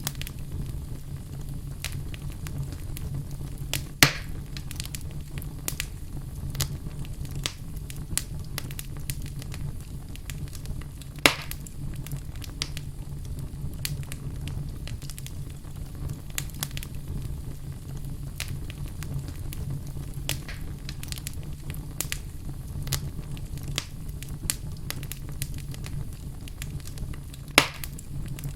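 Wood fire burning in a fireplace: a steady low rumble with frequent small crackles and three sharp, louder pops spread through it.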